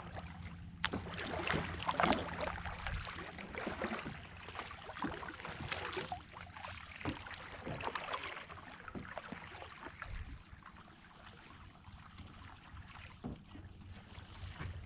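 Kayak paddle strokes splashing and dripping in the water, in irregular surges every second or two, louder in the first half.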